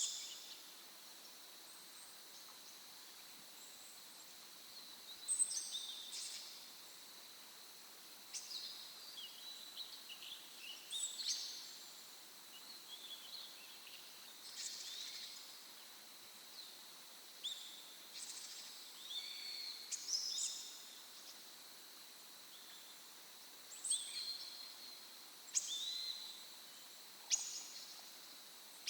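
Wild songbirds calling in a forest at dawn: short high chirps and calls come in scattered clusters, starting about five seconds in, over a faint steady hiss of outdoor ambience.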